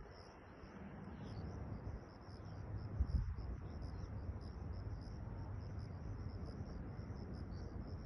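Crickets chirping in a steady trill of rapid, even pulses, over a low rumble.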